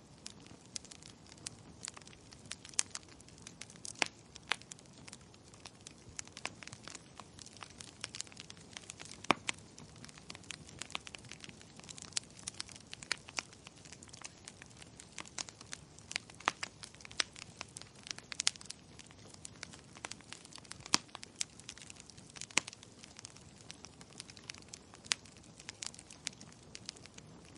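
Wood fire crackling steadily, with many irregular sharp pops and snaps over a soft low hiss.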